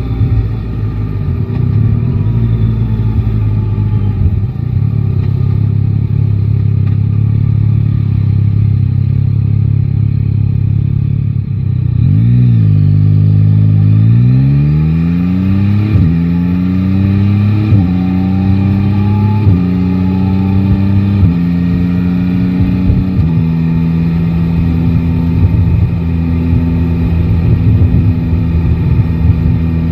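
Yamaha Tracer 9 GT's 890 cc inline-three engine running at low, steady revs. About twelve seconds in it pulls away, the revs rising and dropping back with each of five or six quick upshifts, then it settles into a steady cruise.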